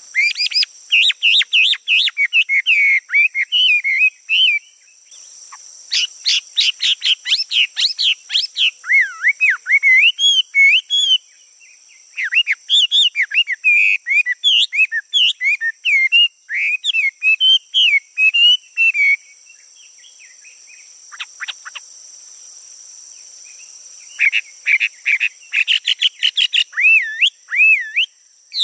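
Male songbird singing loudly: fast, varied warbling phrases of rapid whistled notes sliding up and down, in long bursts. The song breaks off briefly near the start and for several seconds past the middle, then resumes. A steady high hiss runs underneath.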